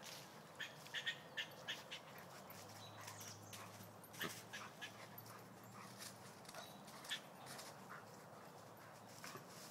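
German Shepherd whimpering in short, faint, high whines: a quick run of them in the first couple of seconds, then a few more spaced out.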